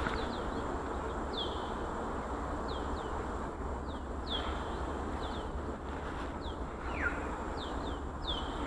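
A bird calling repeatedly with short, falling chirps, about one a second, some in quick pairs, over a steady background hiss.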